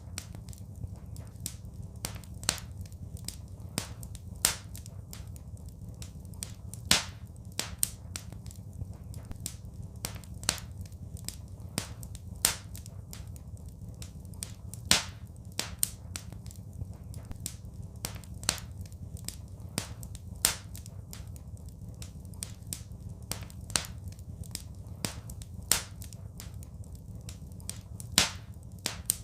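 Wood fire crackling in a fireplace: irregular sharp pops and snaps every second or two over a steady low rumble.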